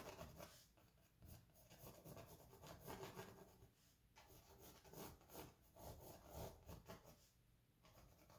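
Faint pencil scratching on canvas: short, irregular sketching strokes.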